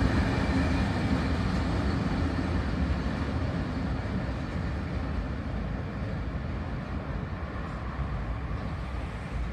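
Freight train of covered hopper wagons running past and away along the line; its steady wheel-on-rail noise slowly fades as the last wagons draw off.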